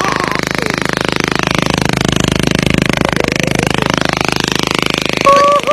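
Small motorcycle engine running steadily, with an even, rapid firing pulse throughout; the bike has been modified for riding through flood water.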